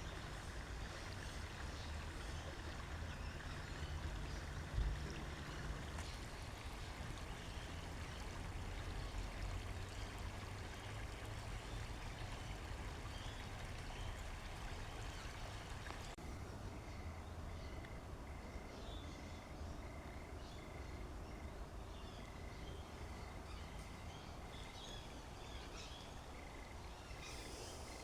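Creek water running steadily, with a low rumble beneath it and a single knock about five seconds in. From about halfway, a faint high peep repeats at a steady pace.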